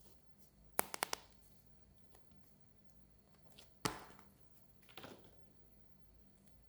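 Sharp clicks and taps from a toy and its packaging being handled: a quick cluster of three or four about a second in, a single louder click near four seconds, and a softer one about five seconds in.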